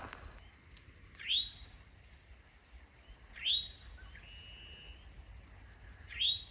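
A songbird calling three times, each call a quick rising note, the middle one followed by a short steady whistle.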